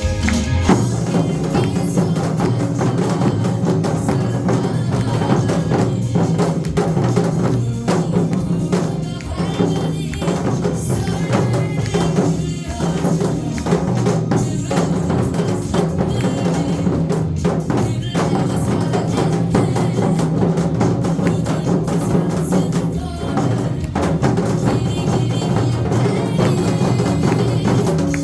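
Upbeat music with drums struck along to the beat: a gogo janggu performance, Korean hourglass drums played to a backing track.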